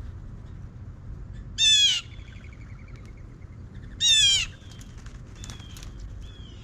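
Birds calling at a feeder: two loud calls about two and a half seconds apart, each slightly falling in pitch, followed by fainter short whistled calls.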